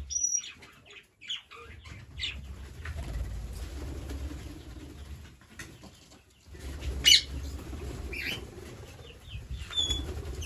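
Green parrots calling with short, sharp squawks scattered through, the loudest about seven seconds in, over a low rumbling background.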